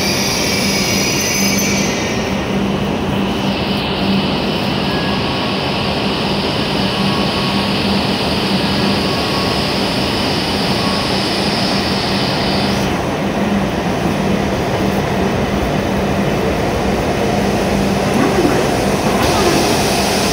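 W7 series Shinkansen train coming to a stop at a station platform: high squealing tones fade out about two seconds in, then the steady rumble and hiss of the standing train's equipment, with a faint low hum, carries on as it waits with its doors about to open.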